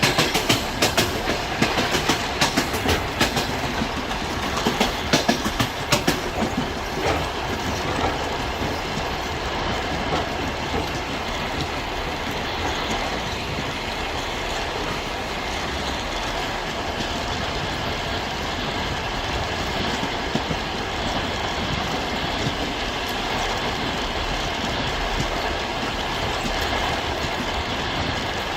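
Train wheels clattering over rail joints: a quick run of knocks for the first several seconds, then a steady rumble as the train runs on along the track.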